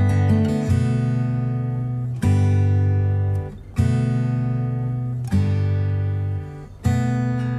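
Background music of acoustic guitar: chords strummed and left to ring, a new chord struck about every second and a half.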